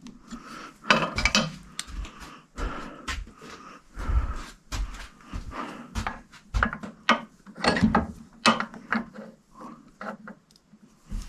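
Irregular clinks, knocks and scraping of metal hand tools and parts being handled, with a few dull thumps.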